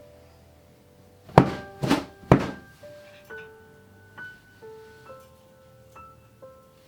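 Three sharp knocks in quick succession about a second and a half in, over soft background piano music.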